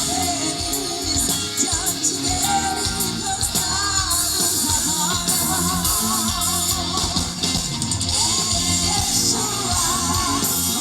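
Live band performing a Brazilian gospel song, with a woman singing the lead melody with vibrato over electric guitar, bass and drums.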